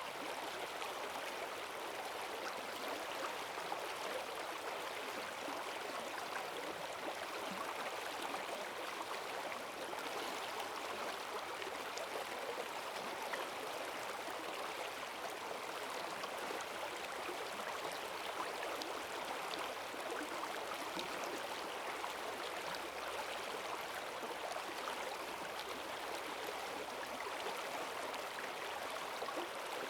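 Forest stream running high and fast after heavy rain: a steady rush of water over stones, with fine splashing and gurgling.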